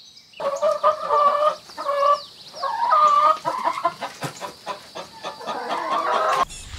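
Chickens clucking: a string of short, repeated, overlapping calls from several birds. They start about half a second in and cut off near the end.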